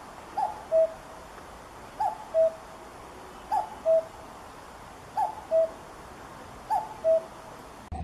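Common cuckoo calling its two-note "cuck-oo", a higher falling note then a lower one, five times at an even pace about one and a half seconds apart, over a steady background hiss.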